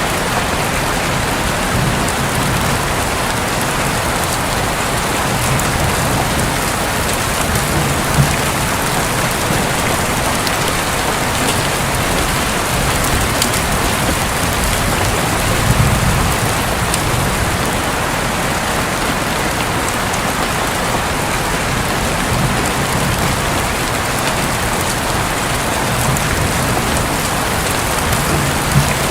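Steady rain falling on a roof, with a low rumble of distant thunder about halfway through.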